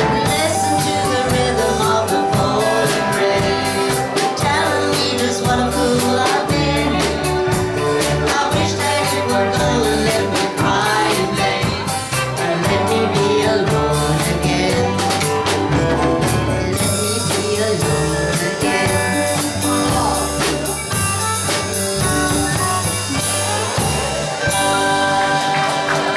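Live band playing a pop song with drum kit, bass and guitar, and a singing voice over it.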